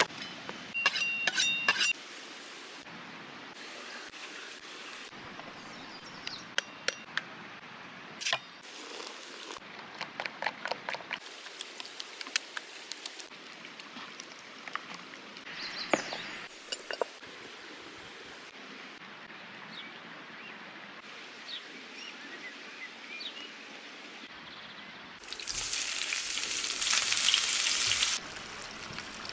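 A run of food-preparation sounds in short cuts: many sharp clinks and taps of utensils on dishes. Near the end comes about three seconds of loud steady hiss.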